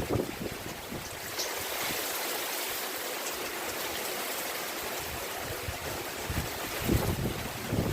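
Steady hiss of rain falling, with gusts of wind buffeting the microphone at the start and again near the end.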